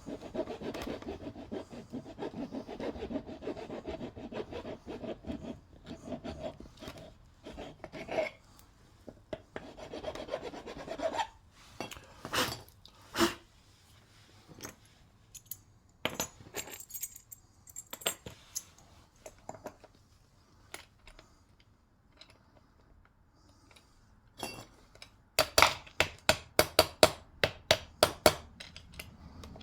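Coarse metal file rasping back and forth on a lead battery post, steady strokes for about the first eleven seconds, followed by scattered knocks and clicks. Near the end there is a quick run of about a dozen sharp clicks.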